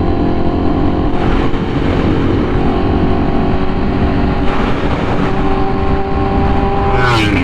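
Honda Fireblade CBR1000RR-R SP's inline-four, fitted with an SC-Project titanium exhaust, running at a steady cruise with an even engine note, under heavy wind rush.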